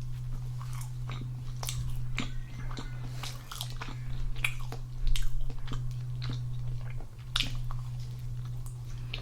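Close-miked biting and chewing of crusty garlic bread: repeated small crunches and crackles of the crust, with the loudest bite about five seconds in. A steady low electrical hum runs underneath.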